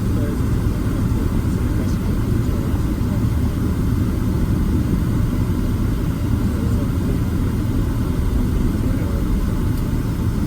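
Steady low rumble of cabin noise inside a Boeing 767-300ER airliner, engines and airflow heard from an economy seat, even throughout with no distinct events.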